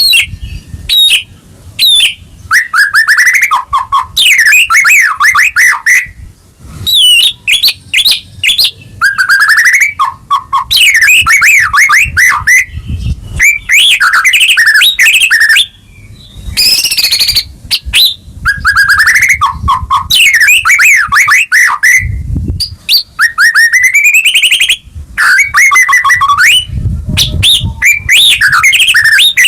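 White-rumped shama (murai batu) singing its full 'gacor' song: loud, varied phrases of rising and falling whistles and rapid trilled notes, each a second or two long with short pauses between. A few low thuds sound under the song.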